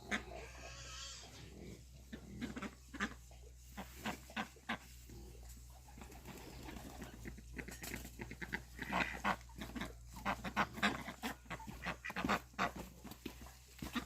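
Pigs grunting and moving about, with many irregular short clicks and knocks that come thicker in the second half.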